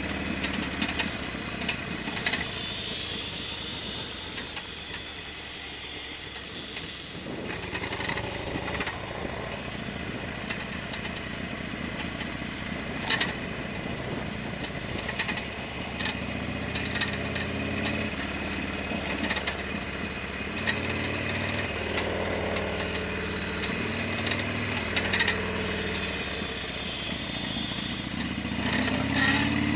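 Harley-Davidson Sportster XL1200R's air-cooled 1200 cc V-twin running on the move, its note falling away for a few seconds, then changing in steps and rising near the end. Scattered sharp knocks sound over it; the owner suspects a knocking noise from something on the bike striking.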